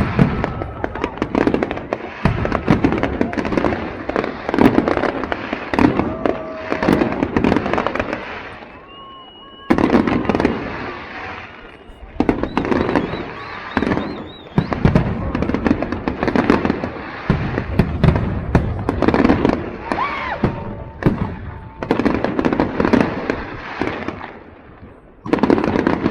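Fireworks display going off: a dense, rapid string of bangs and crackling bursts, easing briefly a few times before starting up again.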